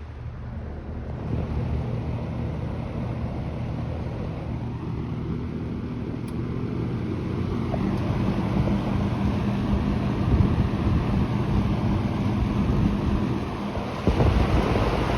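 Vintage JCPenney box fan running: a steady motor hum under a rush of air buffeting the microphone. It grows louder about a second in and steps up again near the end.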